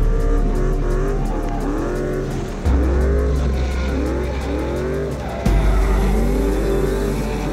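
Drift car engines revving up and down in quick repeated swells, with tyre squeal, over a music track with a deep bass line.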